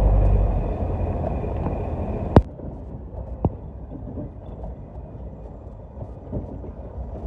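Vehicle driving, a low rumble of engine and road noise heard from inside the cabin. A sharp click about two and a half seconds in, after which the rumble is quieter, and another click a second later.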